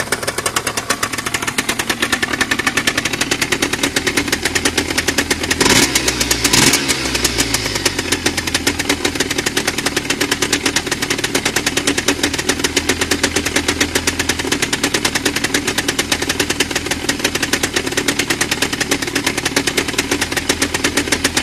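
1997 Aprilia RS 50's 50 cc two-stroke single idling with a fast, even crackle, blipped twice in quick succession about six seconds in before settling back to idle.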